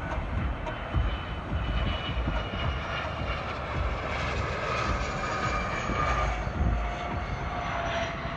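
Airliner passing low on landing approach: steady engine rumble with a whine that drifts slowly down in pitch as it goes by.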